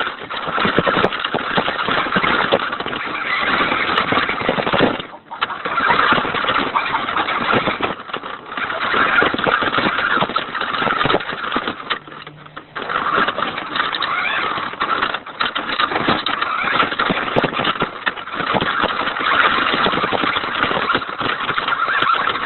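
Radio-controlled Hummer truck's motor running with its drive noise, revving and easing off, dropping away briefly a few times.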